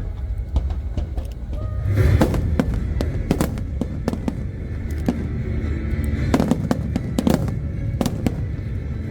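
Fireworks shells bursting in rapid strings of bangs, one run from about two seconds in and another past the middle, over music.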